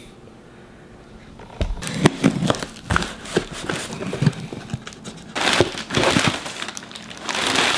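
A parcel being opened and unpacked, with packaging crinkling and rustling. Scattered knocks and clicks of handling start after about a second and a half, and two longer crinkling rustles come in the second half.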